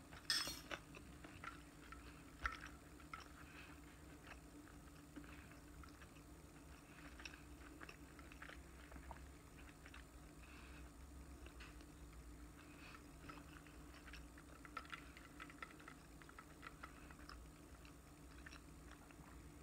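A person quietly chewing food with the mouth closed: faint, scattered wet mouth clicks and soft crunches, with one sharper click about half a second in.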